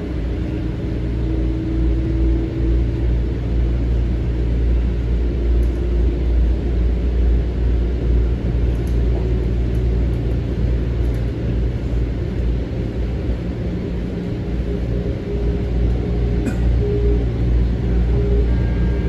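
Metro-North M7 electric train car running between stations, heard from inside: a steady low rumble of the wheels on the track, with a faint whine from the traction motors and a few light clicks.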